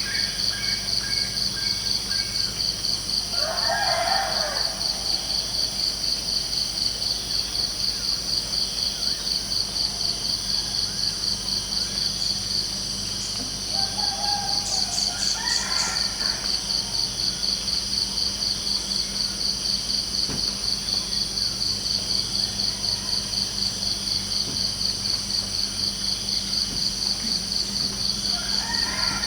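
Insects chirping in a steady, fast pulse, pausing briefly about halfway through, with a few short bird calls near 4 seconds in, near 15 seconds and at the very end.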